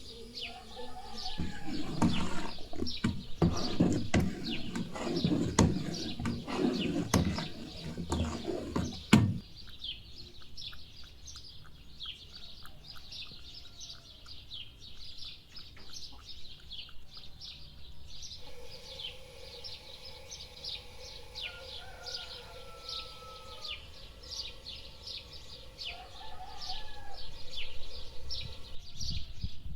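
Small birds chirping busily throughout. For the first third, louder clattering with many sharp knocks sits over the chirping.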